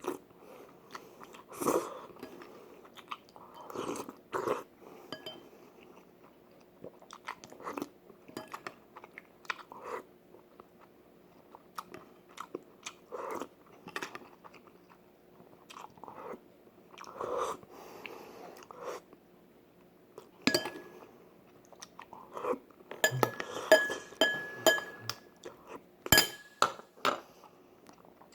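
Close-miked chewing and mouth sounds of a person eating beef seaweed soup, with soft wet smacks about once a second. In the last third come several sharp ringing clinks.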